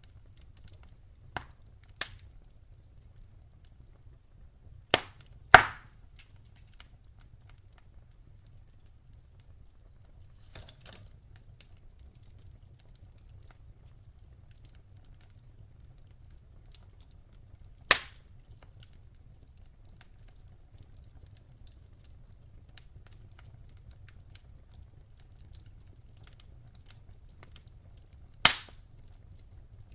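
Campfire crackling: sharp single pops of burning wood, spaced several seconds apart, with two close together about five seconds in, over a faint low steady rumble.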